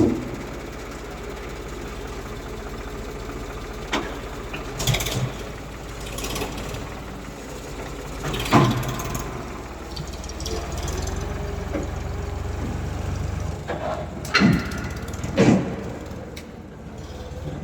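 Heavy diesel engine of a tractor or backhoe loader running steadily, with several sharp knocks and bangs over it.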